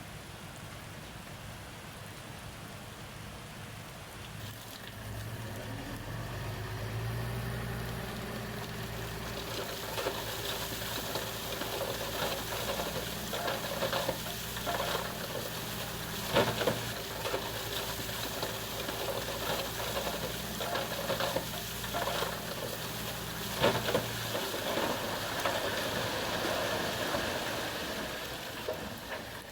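Bulldozer engine running, growing louder about five seconds in, with crackling, crunching noise and several sharp knocks from about ten seconds on as stone is pushed.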